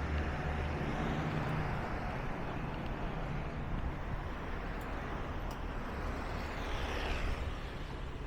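A motor vehicle's engine running and passing, its hum strongest early on and falling in pitch about seven seconds in, over steady outdoor background noise.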